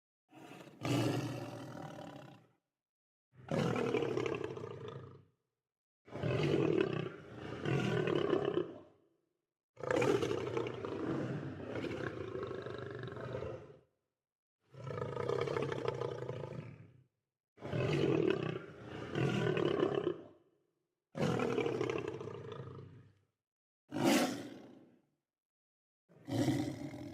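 Lion roars, about ten in a row, each lasting one to four seconds and separated by short gaps of dead silence.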